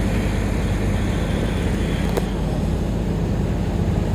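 Large engine running steadily at a constant speed, with a single sharp click about two seconds in.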